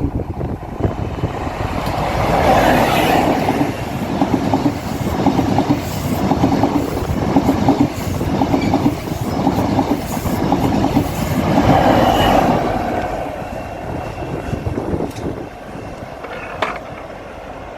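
East Midlands Railway diesel train running past close by, its wheels clattering in a steady rhythm over the rail joints. Loudest about three and again twelve seconds in, then fading near the end.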